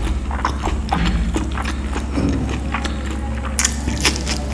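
Close-up mouth sounds of a person eating vegetable biryani by hand: irregular wet chewing and lip-smacking clicks, then a louder, crisper run of crackling bites near the end. A steady low hum lies underneath.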